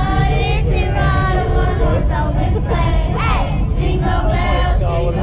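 A group of passengers singing a Christmas song together, voices of several people and children mixed, over a steady low rumble from the moving train.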